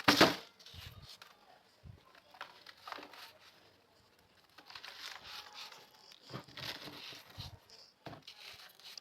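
Crunchy salt being crushed: a loud sharp crunch at the start, then irregular bouts of crumbling and crackling, with a brief lull about four seconds in.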